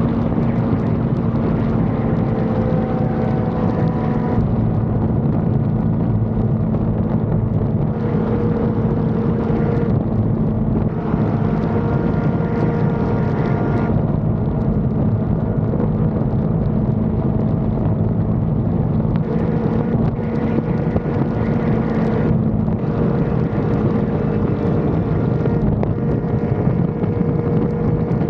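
Yamaha R1 sport bike's inline-four engine running at a steady cruising speed, its pitch hardly changing, with wind rushing over the helmet or action-camera microphone.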